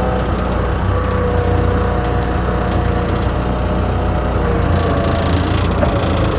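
An engine running steadily with a low hum, and a hiss that rises about five seconds in.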